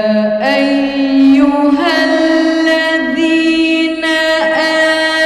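A woman reciting the Quran in melodic tajweed style, drawing out "yā ayyuhā alladhīna" in long held notes with a few pitch turns between them.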